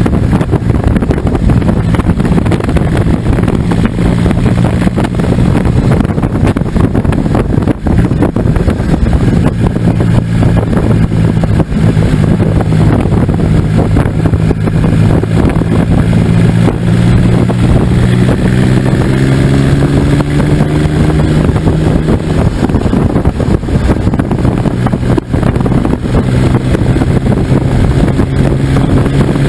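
Diesel motorcycle with a Smart CDI 799cc three-cylinder turbodiesel engine, running on the move with heavy wind noise on the microphone. The engine note climbs in pitch about two-thirds of the way through, then drops back down.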